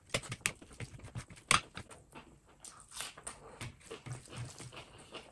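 Close-miked wet chewing and lip-smacking of a mouthful of rice and curry, with the squelch of a hand mixing rice and gravy. There are many irregular small clicks and one sharp, much louder click about a second and a half in.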